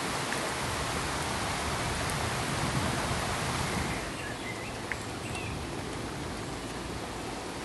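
Steady pink noise, an even hiss like rain or a waterfall. About four seconds in it drops a little in level and loses some of its top end, with a few faint short chirps and a single click.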